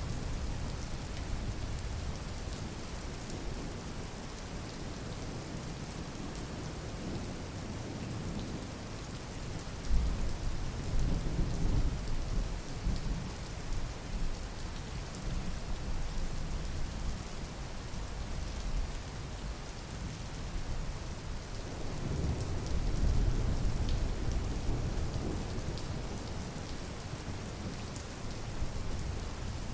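Steady rain falling, an even hiss throughout. Two low rumbles rise over it: one starting with a sudden bump about a third of the way in, the other about three-quarters through.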